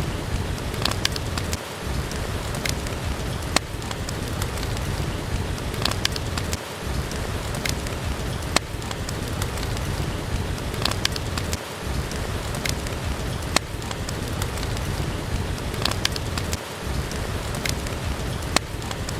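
Steady rain with a low rumble, broken by sharp crackling pops from a wood fire. The same pattern repeats about every five seconds.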